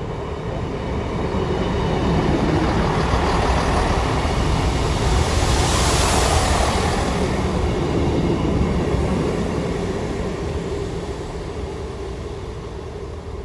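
Diesel passenger train pulling out of the station and passing by, its engine and wheel noise building to a peak about halfway through and then fading away.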